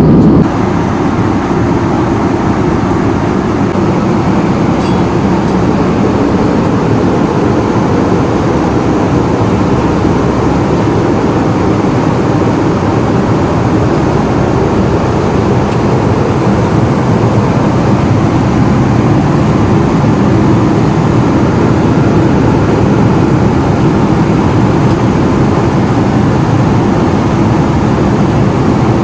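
Steady rumbling cabin noise of an Airbus A320, dropping slightly in level just after the start and then holding even.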